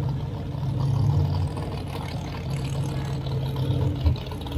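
Drag-racing car engines idling at the starting line, a steady low rumble.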